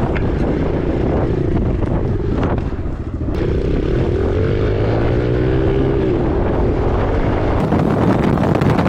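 Heavy wind buffeting on an uncovered microphone while riding, over a dirt bike engine whose pitch rises and falls in the middle, with a hiss of rushing wind that grows near the end.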